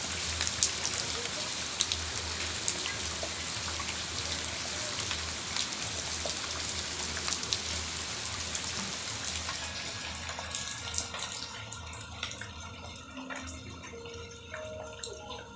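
Rain falling steadily, with scattered drips and drops striking. It thins out and gets quieter about ten seconds in.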